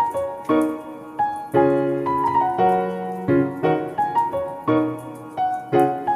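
Piano music: a melody of struck notes over chords, each note fading after it is played.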